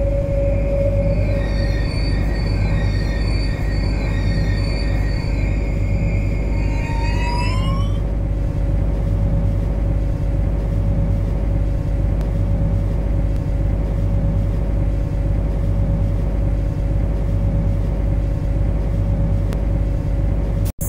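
MTR Kwun Tong line C-Train electric train running, heard from inside the car: a steady low rumble with faint regular thumps and a steady hum. A high whine of several tones rises in pitch and cuts out about eight seconds in.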